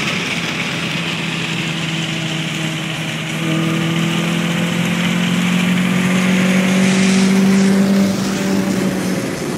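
2005 Toyota Corolla S four-cylinder engine breathing through an Injen short ram intake and Magnaflow exhaust, pulling under acceleration. The note drops at a gear change at the very start, climbs slowly through the next gear, and falls off again near the end.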